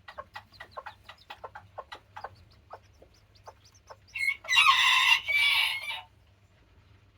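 Day-old chicks peeping in quick, short, falling chirps, then a cockerel crows loudly for about two seconds, starting around four seconds in.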